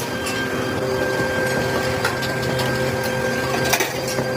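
Workshop machine tool running steadily with a constant whine, and a few light ticks and clicks over it.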